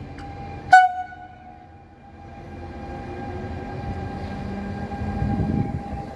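Train horn giving one short, sharp toot less than a second in, over a steady high tone; then the low rumble of a train grows steadily louder as it approaches.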